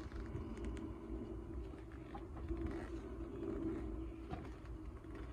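Jeep's 4.0-litre straight-six engine idling steadily, a low even rumble with a constant hum over it, running again after its head gasket repair. A few faint clicks are heard over it.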